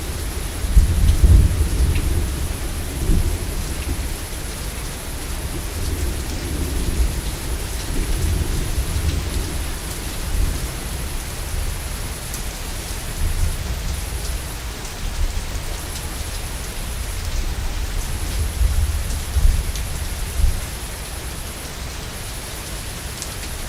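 Steady heavy rain with thunder rolling and rumbling low, swelling and fading several times; the loudest rolls come about a second in and again near the end.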